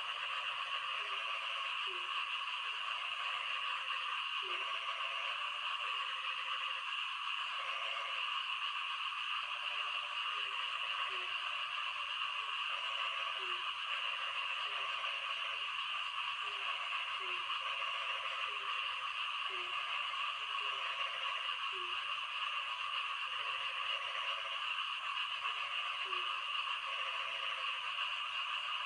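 Frogs calling in the rain: short low croaks repeating roughly once a second, over a steady high hiss.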